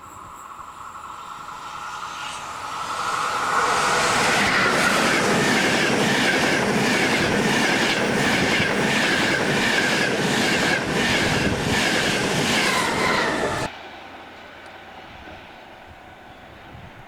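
A train passing at speed, growing louder over the first few seconds, its wheels clacking over rail joints about twice a second. The sound cuts off suddenly about 14 seconds in.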